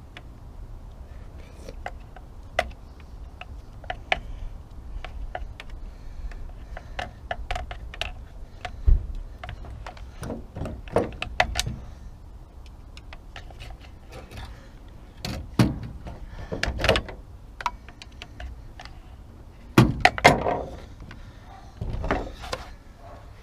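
Hand tools and metal parts clicking and clinking while a hedge trimmer is put back together. There are many short sharp clicks, a few louder knocks about nine seconds in, around fifteen to seventeen seconds and near twenty seconds, and a faint steady low rumble underneath.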